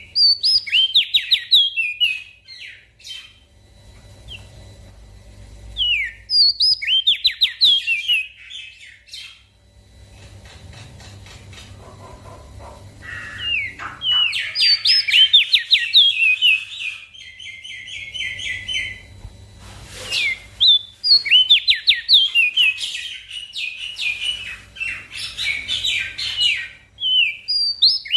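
Crested dark-eye (opior jambul) singing lively bursts of rapid, quick-gliding chirps and trills, four phrases with short pauses between them. A faint steady hum runs underneath.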